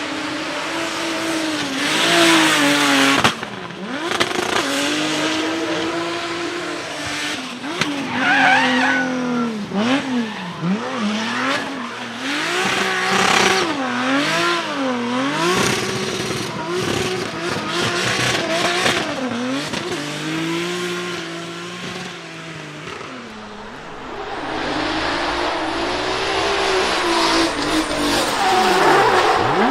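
Drift car engine revving hard and lifting off again and again, its pitch swinging up and down, while the tyres squeal through the slides.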